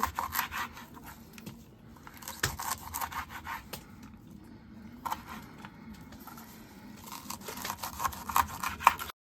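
Rustling and crinkling of a bunch of fresh parsley being handled, with scattered small clicks and taps. It quietens briefly around the middle.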